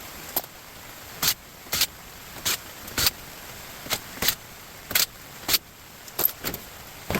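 A run of about a dozen short, sharp taps or clicks, spaced unevenly about half a second apart.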